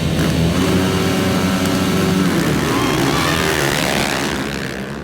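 Motocross dirt bike engines running and revving, one climbing steeply in pitch about three seconds in before the sound eases off near the end.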